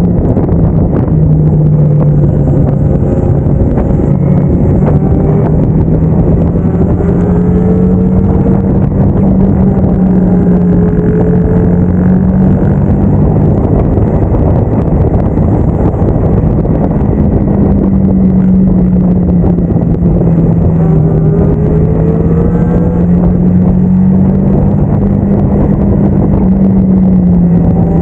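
Motorcycle engine running under way, its pitch rising again and again as it accelerates, over steady wind and road noise.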